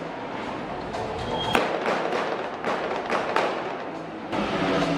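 Irregular sharp bangs and pops from a live car stunt show, over music and steady background noise.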